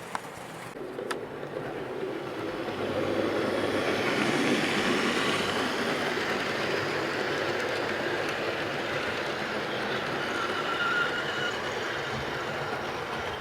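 Model Class 67 locomotive hauling Mark III coaches around a model railway layout: a steady whirr of the motor and wheels on the rails, growing louder about three seconds in as the train comes close, with a faint whine around ten seconds in.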